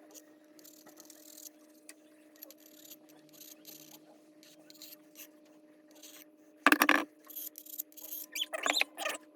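Metal parts being handled on a workbench: light scrapes and clicks, a loud clank about two-thirds of the way in, then a quick run of clinks and scrapes near the end, over a steady low hum.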